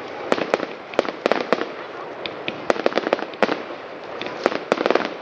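Fireworks going off: irregular clusters of sharp cracks and bangs, several a second, over a steady hiss.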